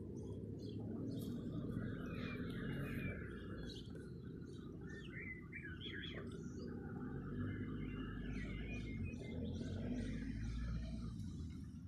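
Wild songbirds chirping and trilling in short phrases, over a steady low rumble.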